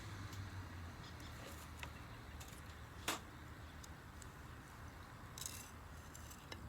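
Wood campfire crackling: scattered small snaps and one sharp pop about three seconds in, over a low steady rumble.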